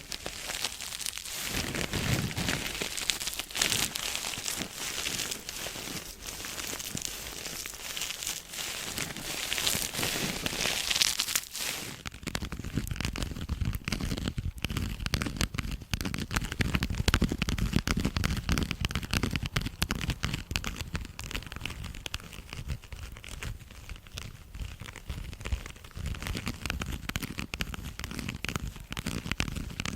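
Close-miked ASMR crinkling and crackling, dense and continuous. About twelve seconds in it changes to a duller, lower rustling.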